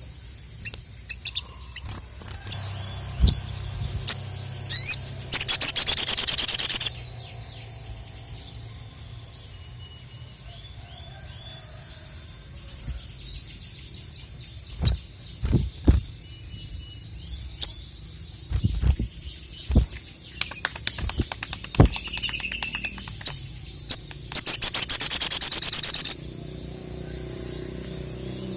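Sogon (sogok ontong) sunbird singing: scattered short high chirps, broken twice by a loud, very fast high trill about a second and a half long, once about five seconds in and again near the end.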